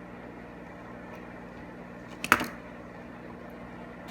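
A steady low hum, with one sharp click of a small hard object about two seconds in.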